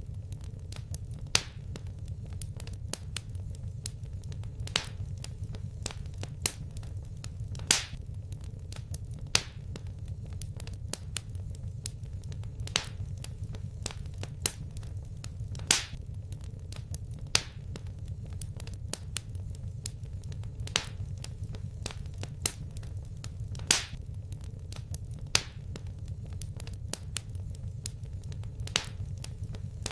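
Fireplace wood fire crackling: sharp pops every second or two and fainter crackles between them, over a steady low rumble of the flames.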